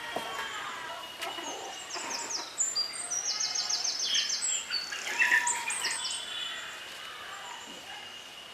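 Birds chirping and calling, with a quick run of high repeated chirps about three to four and a half seconds in.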